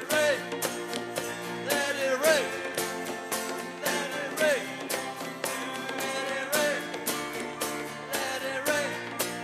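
Live worship band music with a fast, steady drum beat under sliding melodic lines from an instrument or voice.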